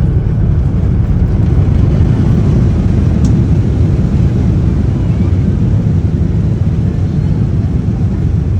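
Airliner cabin noise during the landing: a loud, steady low rumble of the jet engines and airframe, with one short click about three seconds in.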